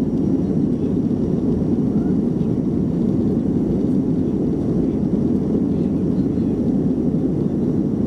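Boeing 737-300's CFM56-3 jet engines running at high power during takeoff, heard from inside the cabin as a loud, steady low rumble of engine and airflow noise.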